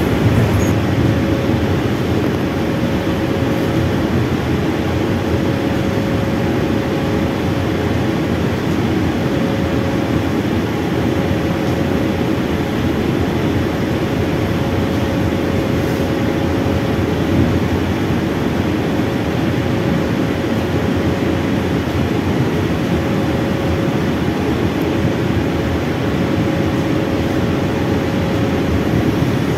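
Suburban electric train running at speed, heard from inside the carriage: a steady rumble with a faint hum that fades in and out.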